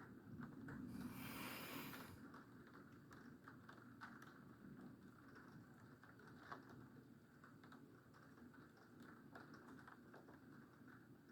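Faint, irregular taps and ticks of rain dripping during a thunderstorm. A low rumble and a brief hiss come about a second in and fade by two seconds.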